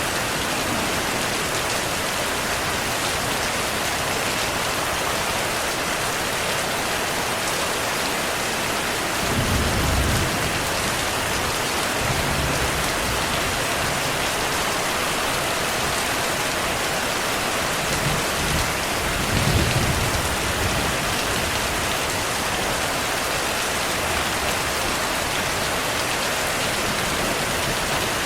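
Steady heavy rain, with soft low rumbles of distant thunder swelling briefly about a third of the way in and again about two thirds of the way in.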